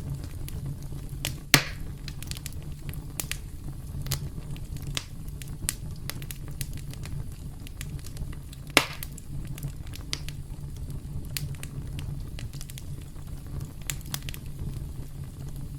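Campfire burning with a steady low rumble and scattered crackles, with two louder pops, about a second and a half in and again near nine seconds.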